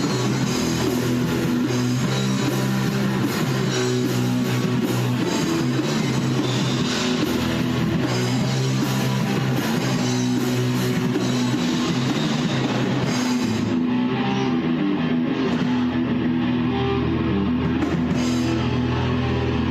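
Rock band playing live in rehearsal: guitars and drum kit in a loud, steady instrumental passage with no singing. The cymbals thin out for much of the last third.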